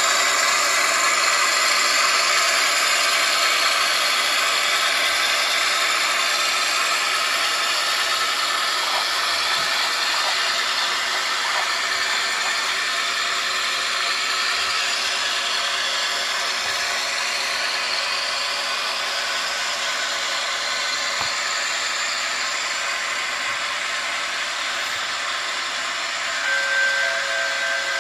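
Model railway train running, a steady electric whirr that slowly gets quieter.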